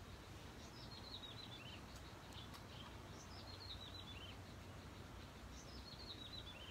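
A bird singing faintly: a short phrase of quick notes stepping down in pitch, repeated three times about two seconds apart, over a faint low background hum.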